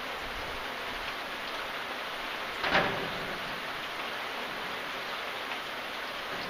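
Steady rain falling and pattering on a surface, with one brief louder splash a little under three seconds in.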